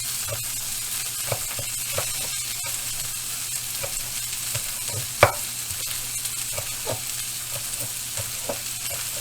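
Burger patties sizzling in a frying pan, a steady hiss, with scattered light taps and one sharper knock about five seconds in.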